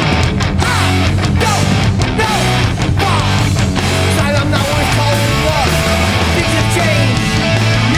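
Live hardcore punk band playing loud, with distorted electric guitar over bass and drums.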